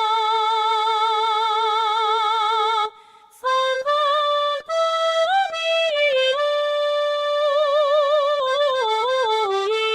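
Synthesized female singing voice singing a Japanese folk-song (min'yō) melody to a simple accordion accompaniment. It holds long notes with wide vibrato, breaks off briefly about three seconds in, then runs through ornamented turns and glides between notes.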